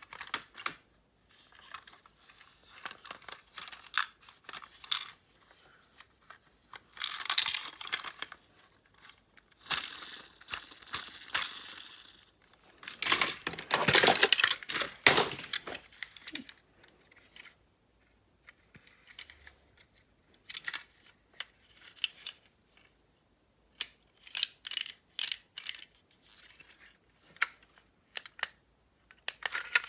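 Objects being handled close up: irregular sharp clicks and bursts of rustling and scraping, with the longest, loudest stretch of rustling a little past the middle.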